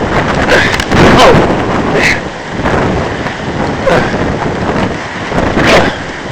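Strong wind blowing across the camera microphone, a loud rushing noise that rises and falls in gusts.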